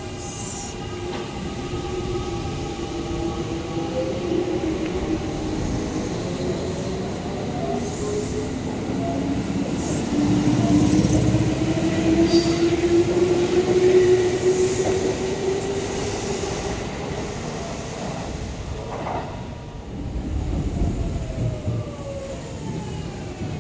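Kintetsu electric train pulling out of the station: its traction motor whine climbs steadily in pitch as it picks up speed, over the rumble of the wheels on the rails. Near the end another Kintetsu train, a 1021 series, brakes into the platform, its motor whine falling in pitch.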